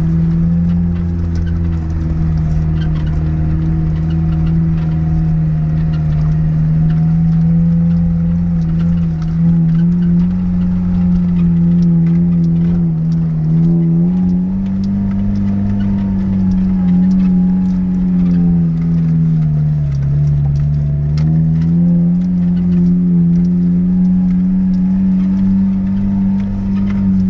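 Niva 4x4's four-cylinder engine pulling hard under load up a steep, rough climb, its note holding steady, dipping briefly about two-thirds of the way through and then rising again. Faint scattered knocks and rattles run over it.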